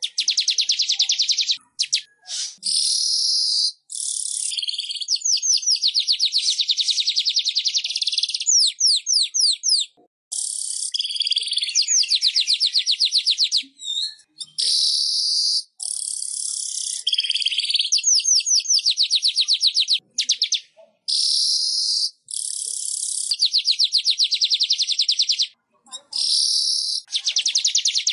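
Manyar weaverbird song: fast, buzzy, chattering trills repeated in dense phrases a few seconds long, with brief pauses between them.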